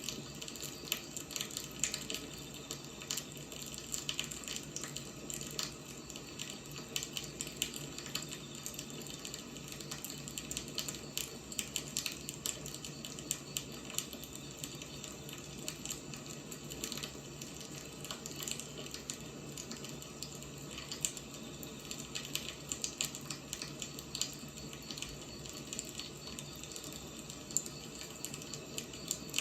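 Firewood burning: a steady hiss with frequent small crackles and pops.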